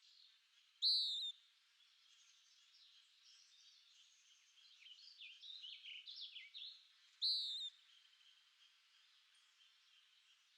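Birdsong: two loud, short calls about six seconds apart, each dropping slightly in pitch, with a quick run of falling chirps between them, over a faint chorus of other birds.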